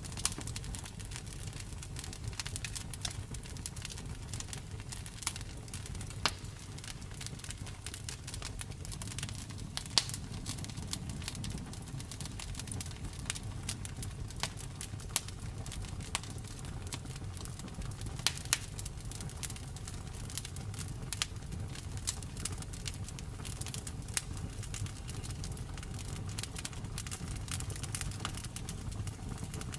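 Wood fire in a fireplace crackling, with sharp pops scattered irregularly over a steady low rumble of the flames. The loudest pops come about ten seconds in and again around eighteen seconds.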